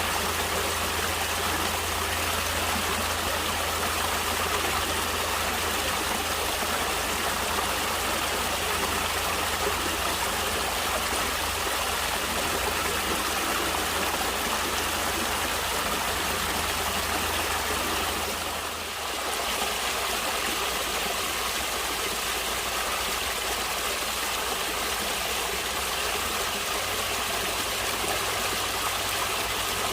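A stream flowing steadily, an unbroken sound of running water that dips briefly in level about two-thirds of the way through.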